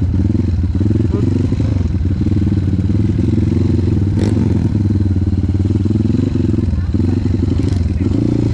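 Trail motorcycle engine running at low revs, its pitch wavering as the throttle is worked, with a sharp knock about four seconds in.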